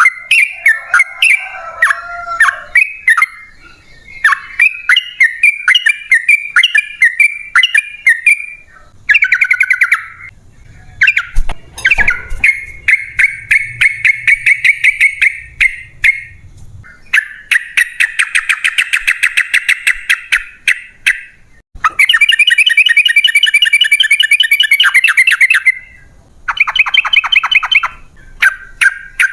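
Yellow-vented bulbul (trucukan) singing: short, bubbly chirped phrases, then several long, fast runs of rapidly repeated notes lasting a few seconds each, the long rolling song that bird keepers call 'ropel panjang'.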